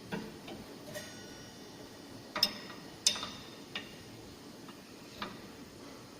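About six sharp metallic clicks and clinks at uneven intervals, a few leaving a brief metallic ring, from metal parts of a circular saw blade grinder being adjusted and tightened by hand. The two loudest come about two and a half and three seconds in.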